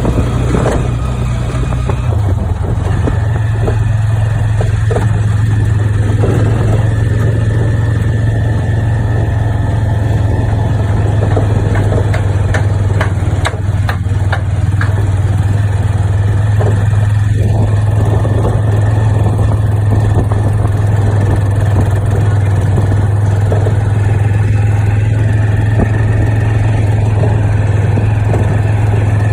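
An engine running steadily with a strong, even low hum, its pitch shifting slightly about two seconds in.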